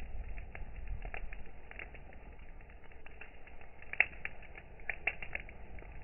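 Campfire wood crackling, with irregular pops and one sharper pop about four seconds in, over a low rumble that fades in the first couple of seconds.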